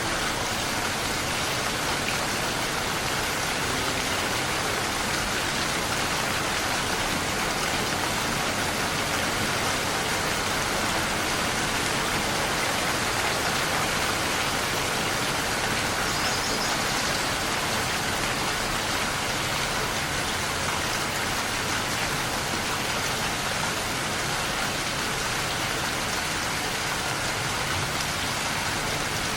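Steady, heavy rain falling, an even, dense hiss of drops with no thunder.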